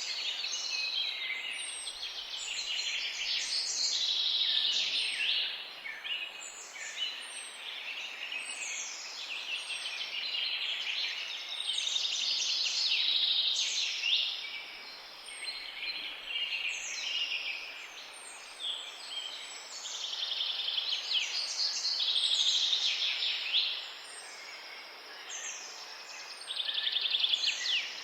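Several songbirds chirping and singing at once in a steady, overlapping chorus of quick chirps and trills, with one short high note repeating every second or two.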